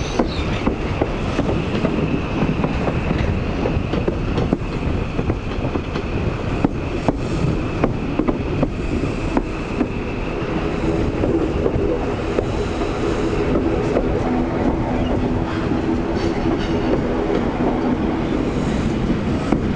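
High Speed Train on the move at low speed, heard from an open carriage window: wheels click irregularly over rail joints and pointwork. A steady high whine runs through the first half. From about halfway a Paxman VP185 diesel power car's engine note builds and grows stronger as the train pulls away.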